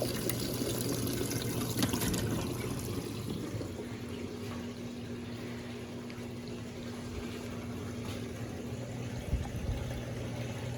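Electrolux Turbo Compacta LTC07 washing machine draining after its wash cycle: water runs out over a steady drain-pump hum. The rush of water thins about four seconds in, leaving a steadier pump hum.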